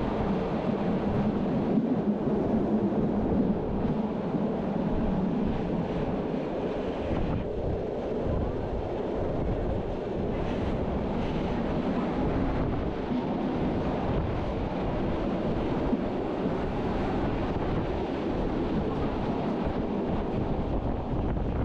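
Wind rushing over the microphone, mixed with the steady rumble of the train's wheels running on the track, as heard from an open observation carriage.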